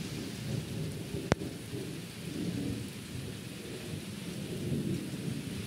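Steady rain falling, an even hiss, with a low uneven rumble underneath and a single sharp click about a second in.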